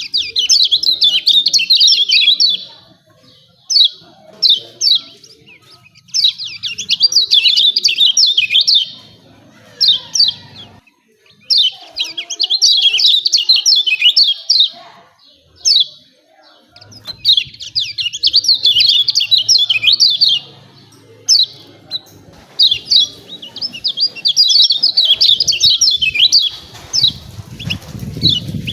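Kecial kuning white-eye giving its busy 'ciak ciak' calls: rapid bouts of high chirps lasting two to three seconds, broken by short pauses and single calls. A faint low rumble sits under the calls near the end.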